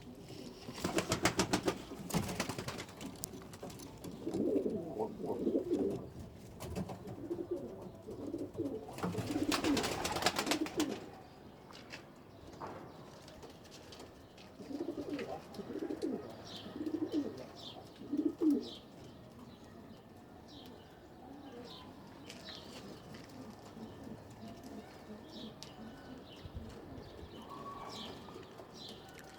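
Domestic blue pigeons cooing in several bouts. Two bursts of rapid fluttering, like wings flapping, come about a second in and again around nine to ten seconds in. Faint short high chirps are heard in the second half.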